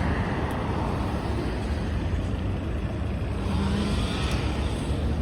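ZiU-682G trolleybus on the move: a steady low rumble, with a faint whine that rises and falls about four seconds in.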